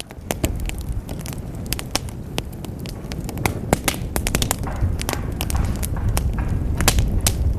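Wood fire burning in a fireplace, crackling with frequent sharp pops and snaps over a low, steady rumble of the flames.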